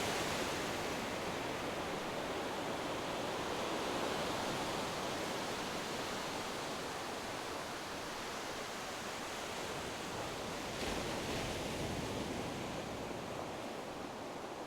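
Steady rushing of ocean surf and wind, slowly growing quieter, with a brief swell about eleven seconds in.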